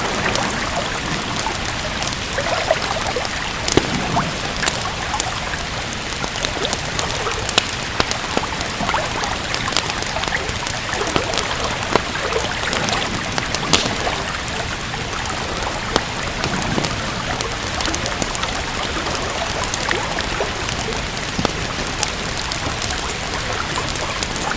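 Steady rain with a wood fire crackling, sharp pops and snaps scattered irregularly over the even rush of the rain.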